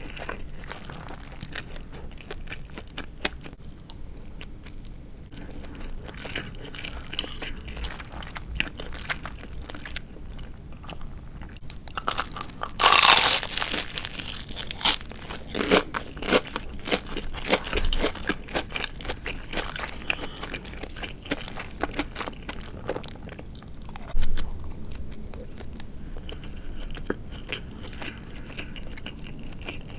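Close-miked chewing and crunching of crispy deep-fried marinated chicken (tatsuta-age), with a run of short crunches and the loudest bite about halfway through.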